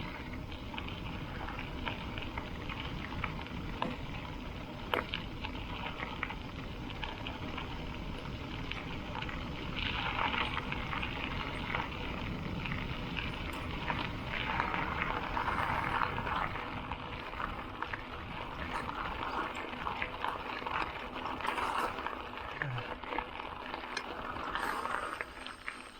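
Bicycle tyres rolling over a gravel and dirt road, a steady crunching hiss with small stone clicks. It swells in louder stretches and eases off near the end.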